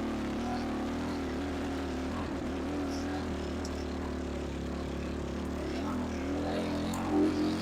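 ATV engine running steadily under way on a trail, heard through a wind-muffed clip-on wireless lavalier on the rider. The engine pitch wavers slightly, dipping a little and rising again near the end.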